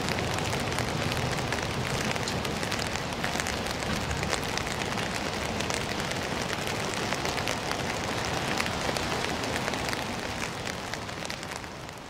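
Container freight train running over an elevated track: a steady rumbling rush with fine clattering from the wagons' wheels, fading out near the end.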